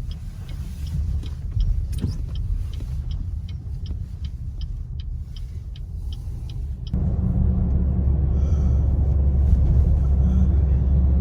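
Car interior road and engine rumble while driving on a snowy road, with a light regular ticking at about two to three ticks a second. About seven seconds in the ticking stops and the low rumble jumps louder and stays there.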